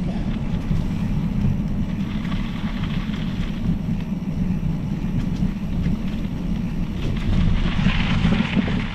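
Steady wind rumble buffeting the microphone of a camera riding along on a moving mountain bike.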